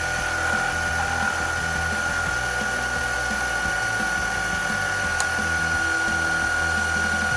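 Metal lathe running with a steady, high-pitched whine while facing off an aluminium bung.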